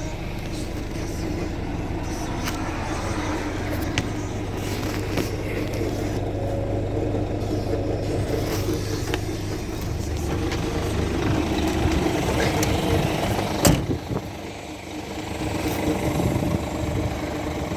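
Scania P360 truck's diesel engine running steadily, with scattered clicks and one sharp knock about 14 seconds in, after which the sound dips briefly before picking up again.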